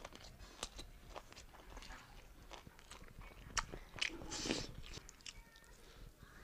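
Close-up eating sounds: chewing a mouthful of beef and rice, with scattered wet mouth clicks and lip smacks. There is a slightly louder stretch about four seconds in.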